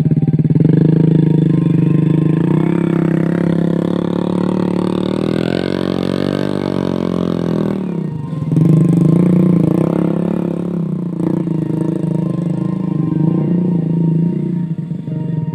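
Motorcycle engine running hard and revving, its pitch climbing through the middle, dropping sharply about eight seconds in, then picking up again.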